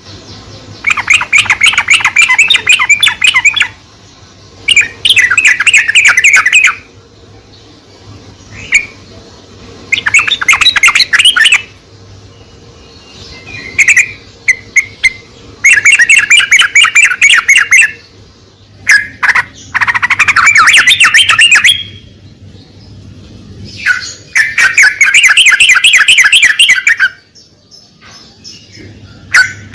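Yellow-vented bulbul (trucukan) singing: loud bursts of rapid, bubbling chattering notes, each a second to three seconds long, repeated about seven times with short pauses, over a faint steady low hum.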